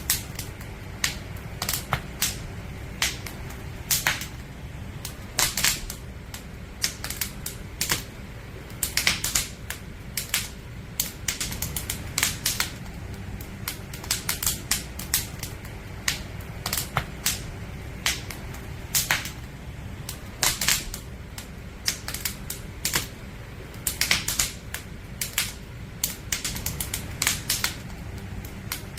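Firewood burning in a campfire, crackling: irregular sharp snaps and pops, several a second in clusters, over a low steady rumble.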